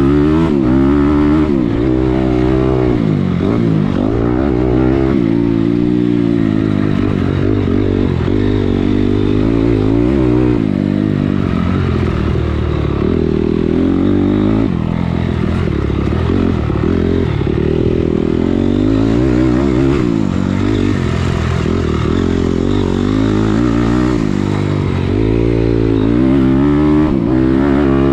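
Motocross dirt bike engine revving up and dropping back over and over, the pitch rising and falling every second or two, as it is ridden hard around a track.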